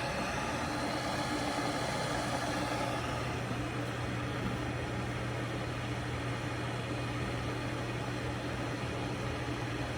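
Tumidy 1.7 L glass electric kettle heating cold liquid toward the boil: a steady hiss over a low hum.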